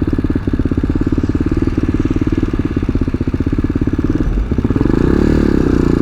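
Tao Tao TBR7 dual-sport motorcycle's single-cylinder engine running under way with an even, steady pulse. About four seconds in, the engine note dips briefly, then comes back louder, its pitch rising and falling as the engine pulls harder.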